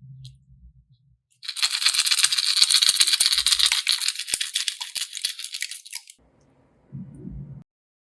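A dense, rapid rattle of many small hard pieces, starting about a second and a half in and lasting about five seconds, then cutting off; a short low hum follows near the end.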